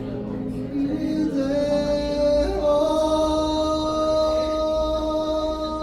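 A singer performing a Korean ballad live, moving into one long held high note about a second and a half in and sustaining it until near the end.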